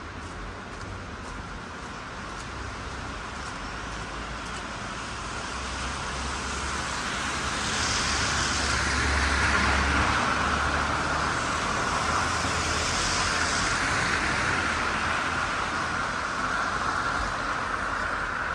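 Road traffic: a motor vehicle passing, its engine rumble and tyre noise swelling over several seconds to a peak about halfway through, then slowly fading.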